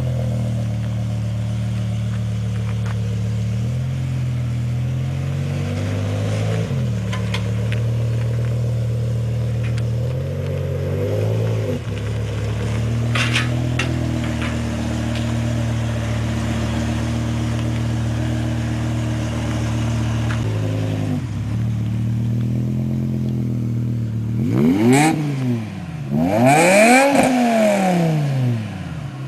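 BMW E60 M5's S85 V10 through a cat-less, resonator-less race exhaust, idling steadily with a few small throttle blips. Near the end come two sharp revs that climb and drop quickly.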